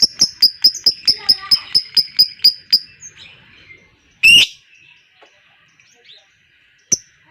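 Lovebird 'ngekek' chatter: a fast, even run of sharp high chirps, about five or six a second, breaks off about three seconds in. A single loud shrill call follows a second later, then a pause.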